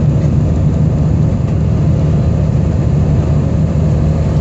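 Airliner jet engines heard from inside the passenger cabin during takeoff, a steady, loud, low rumble with an even rush of air noise above it.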